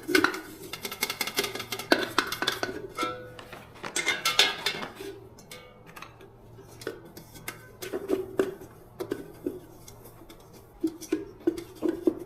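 Metal parts and tools clinking and knocking together in irregular bursts, some strikes ringing on briefly. The clatter is busiest in the first few seconds and thins out toward the middle.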